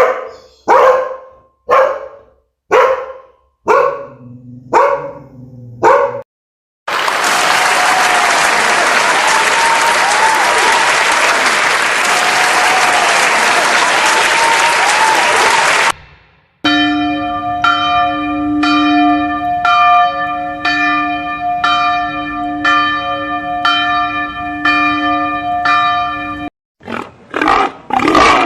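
A sequence of separate sound effects: a dog barking about eight times, then after a brief pause a long stretch of steady rushing noise with a faint warbling tone, then a bell ringing with a repeated strike almost twice a second that cuts off suddenly.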